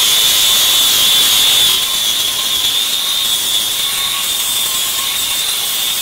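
Handheld power grinder running steadily with a high whine as it grinds down wood and hardened auto Bondo filler in a deck board; the sound drops a little about two seconds in.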